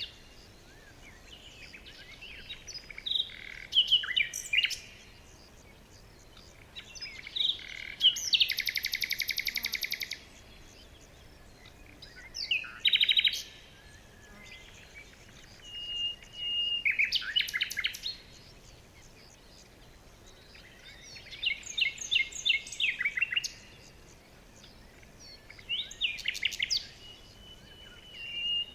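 Songbirds singing in short bursts every few seconds: quick chirps, rapid trills and a few thin held whistles, over a faint steady outdoor hiss.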